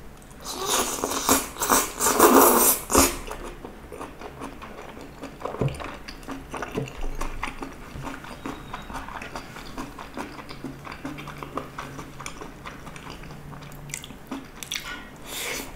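Close-miked mukbang eating of cheese vegetable gopchang (stir-fried intestines with vegetables): loud mouth noises as a big mouthful goes in during the first three seconds, then steady chewing with many small clicks, and a louder burst near the end as another bite is taken.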